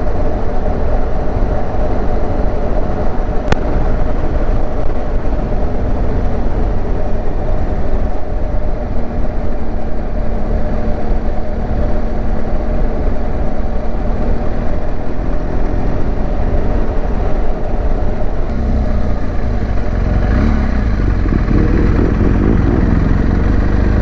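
Onboard motorcycle riding sound: the engine running steadily under constant wind rush and road noise, with one sharp click a few seconds in.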